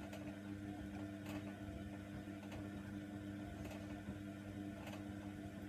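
Hoover Nextra washer dryer running its wash cycle: a steady motor hum with a faint tick about every second.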